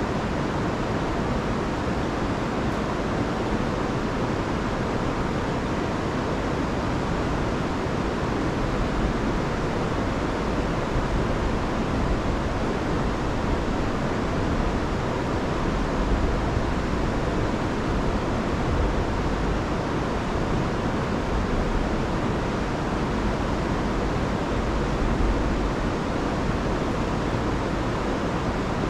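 River in spate after a week of heavy rain, rushing water and small waterfalls making a steady, loud roar with a heavy low rumble.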